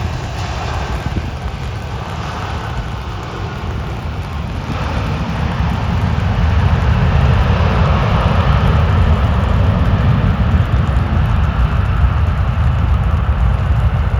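Airbus A330 jet engines running, a steady rushing roar with a deep rumble that swells louder about six seconds in as the airliner lands.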